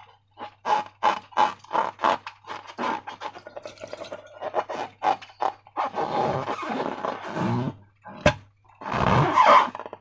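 Slime being squeezed and worked by hand, giving a quick run of short wet squelches about three a second. From about six seconds in come longer squelches where trapped air is forced out, and another near the end.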